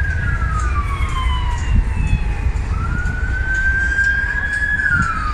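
Emergency vehicle siren wailing in slow cycles, each rising, holding high, then falling away; two cycles, the second fading near the end, over a steady low rumble.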